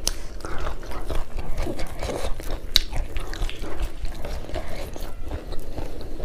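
Close-miked chewing and mouth sounds of people eating curry and rice by hand: a busy, irregular run of small clicks and squelches.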